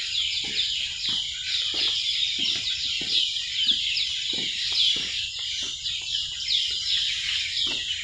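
Forest cicadas calling in a loud, continuous chorus of rapidly repeating high pulses, with footsteps on the boardwalk underneath.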